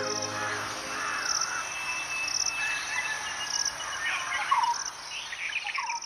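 Common iora calling, including a long, steady whistled note and a few short falling notes, over an insect chirping about once a second.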